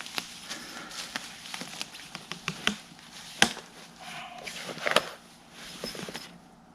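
Hammock straps and clips being handled and pulled tighter: scattered sharp clicks and ticks with some rustling of webbing and fabric, and one louder click about three and a half seconds in.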